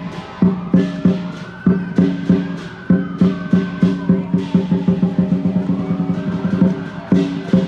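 Lion dance percussion: the large lion dance drum beating a fast, uneven rhythm with cymbal clashes over it.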